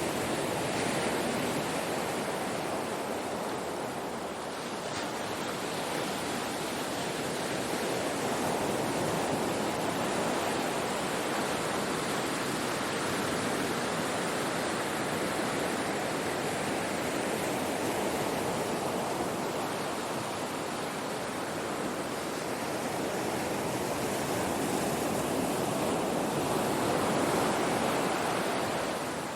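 Ocean surf washing on a shore: a continuous rushing of breaking waves that swells and eases slowly, with the loudest surge near the end.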